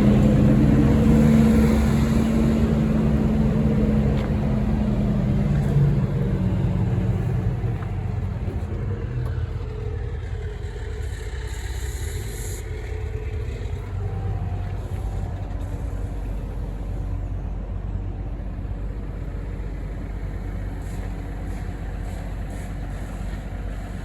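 Heavy truck diesel engine running steadily at idle, growing fainter over the first several seconds.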